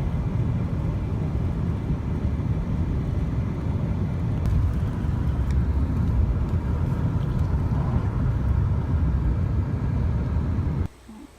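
A car moving along a road: a steady low rumble of engine, tyre and wind noise, cutting off suddenly near the end.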